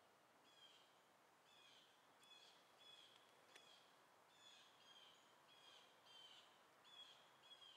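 Faint bird calls: a short chirp repeated about twice a second over a low hiss, with a couple of small clicks.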